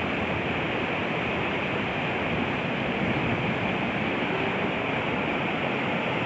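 A river in flood after heavy rain, its fast water rushing past in a steady, unbroken noise.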